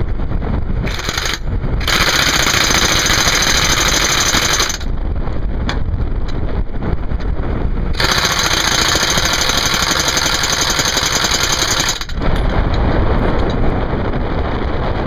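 Pneumatic impact wrench hammering in bursts on the plow bolts of a road grader's cutting edges: a short burst about a second in, then two long runs of about three and four seconds. A motor runs steadily underneath.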